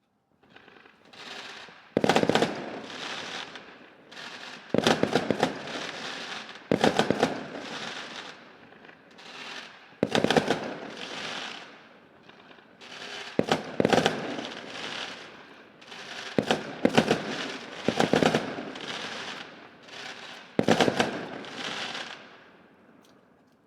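Fireworks exploding in a string of loud bangs, roughly one every two to three seconds, some in quick pairs. Each bang is followed by a crackling rumble that fades before the next.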